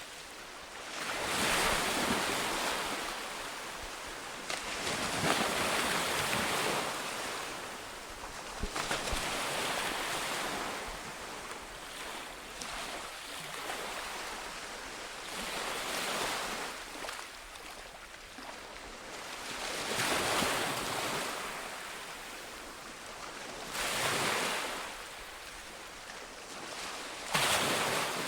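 Ocean waves breaking and washing up a beach, each surge swelling and fading every few seconds.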